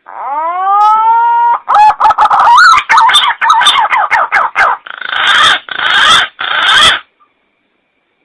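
Green pigeon (punai) calling, as a hunter's lure call: a whistled note rising in pitch, then a run of wavering, warbling notes, and near the end three harsh, raspy notes.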